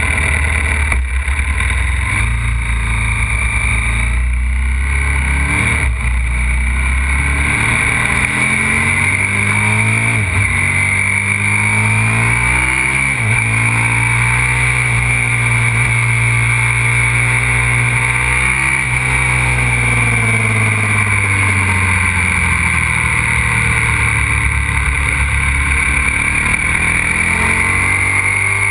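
Aprilia RXV 550 supermoto's V-twin engine under way, its pitch rising and falling repeatedly as it is accelerated and shifted through the gears, over a steady hiss.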